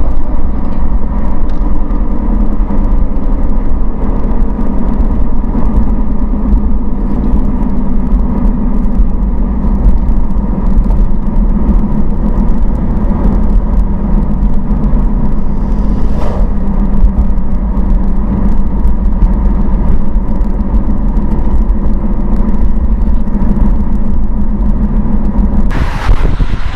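Car driving at a steady speed: a constant engine and road rumble with a steady hum. Near the end a loud rush of wind noise on the microphone cuts in.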